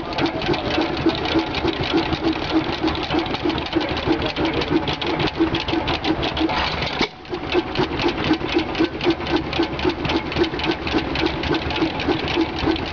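1920 United 4½ hp open-crank hit-and-miss stationary engine with a mechanical igniter, running with a steady rhythmic beat of several strokes a second. The sound dips briefly about seven seconds in.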